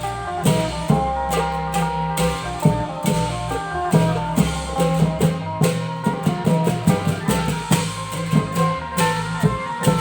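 Klong yao long-drum ensemble playing Thai folk music: a steady, driving beat of drum strokes with a sustained melodic line over it.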